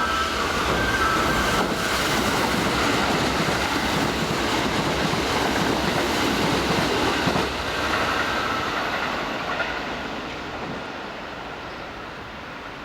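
Kintetsu 21000 series Urban Liner plus electric train passing through the station without stopping, with loud running and wheel-on-rail noise that dies away over the last five seconds as it leaves.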